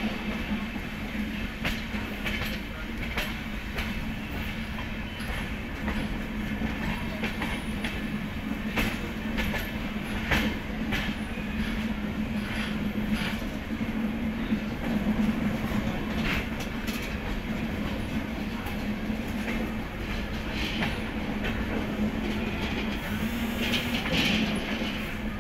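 Mahananda Express passenger coach rolling out of a station, heard from inside: a steady rumble of wheels on the track with irregular clacks over rail joints, and a brief high squeal near the end.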